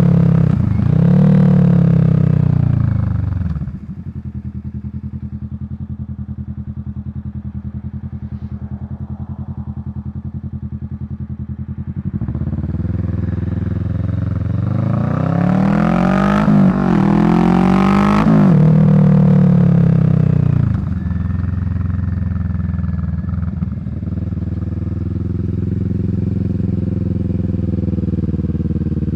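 2023 Kawasaki Vulcan 650's parallel-twin engine through a Delkevic slash-cut exhaust. A rev drops back to a steady idle, and a few seconds later the engine is revved up and down several times before settling back to idle.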